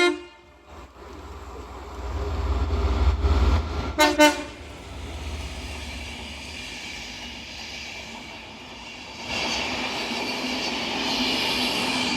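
Passenger train led by a driving van trailer passing through, its low rumble building to a short horn toot about four seconds in. Near the end, rail and wheel noise rises as the coaches run by.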